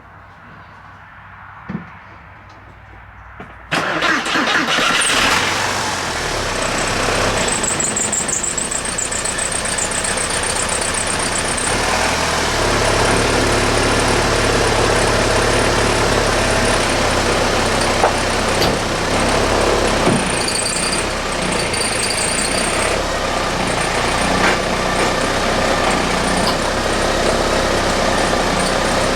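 A 1993 Porsche 968's 3.0-litre four-cylinder engine is started a few seconds in and then keeps running, after a few faint clicks.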